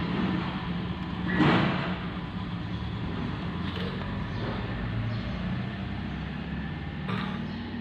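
Steady hum of a running vehicle engine, swelling briefly about a second and a half in, with a couple of light clicks.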